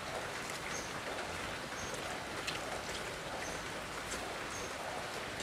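Steady hiss of light rain falling, with a few faint short high chirps.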